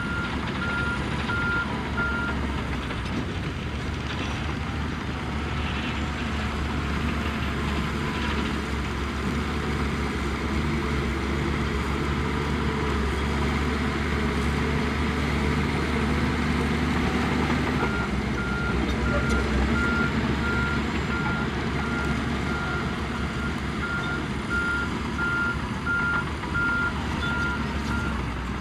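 Diesel engines of heavy earthmoving equipment running under load, with a reversing alarm beeping at an even pace for the first couple of seconds and again through the last third.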